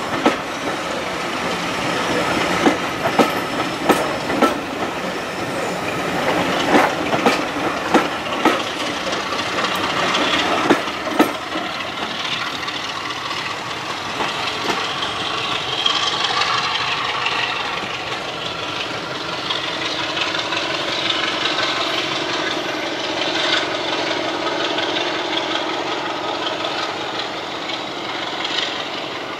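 A passenger train's coaches rolling past on jointed track, their wheels clicking over the rail joints roughly once a second over a steady rumble. After about 12 s the clicks stop and the rolling noise carries on, easing off slightly near the end as the train draws away.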